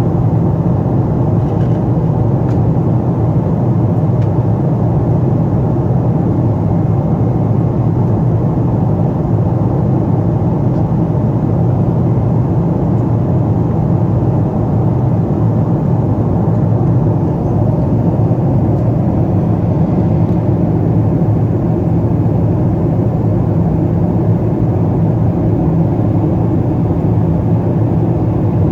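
Steady airliner cabin noise of a Boeing 777-200 in flight: an even low rush of engine and airflow noise heard from inside the cabin, with no change in level.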